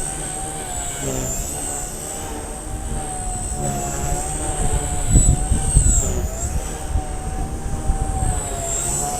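A steady high whine from a small electric motor, wavering slightly in pitch, over gusty wind buffeting the microphone. The buffeting is heaviest around the middle.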